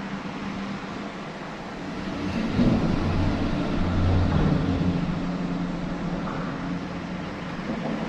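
A motor humming in the distance over a steady wash of outdoor noise, swelling louder a couple of seconds in and easing off again.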